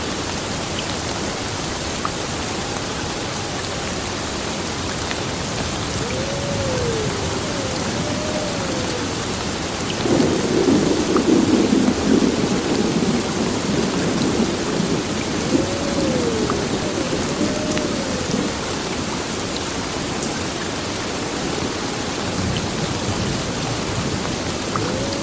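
Heavy rain falling steadily, with a roll of thunder about ten seconds in that swells and then fades over several seconds. A faint wavering tone rises and falls now and then beneath the rain.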